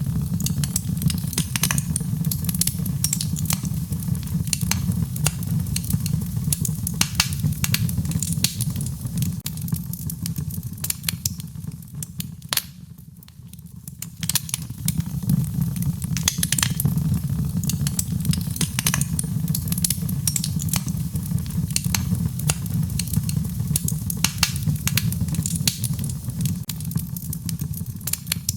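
Wood fire crackling, with frequent sharp pops over a steady low rush. The sound dips briefly a little before halfway through.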